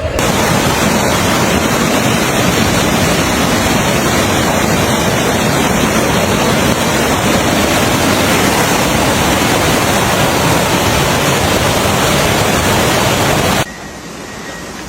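Loud, steady rush of water. It cuts off suddenly about a second before the end, giving way to a much quieter background.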